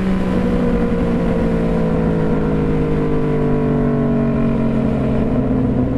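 Yamaha FZ-09 three-cylinder engine on the move, its pitch drooping slowly as the bike slows off the throttle after a gear change, with steady wind rush on the helmet microphone. Near the end the engine note steadies at a higher pitch.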